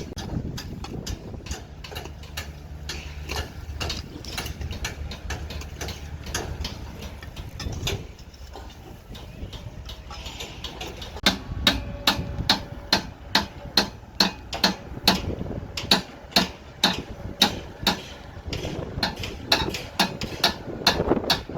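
Repeated sharp hammer-like knocks over a low machine hum. In the second half they become a steady beat of loud strikes, about two a second.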